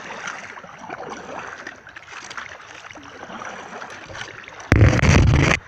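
Kayak paddle strokes dipping and splashing in the water. Near the end a much louder rushing noise, heavy in the low end, lasts about a second and cuts off suddenly.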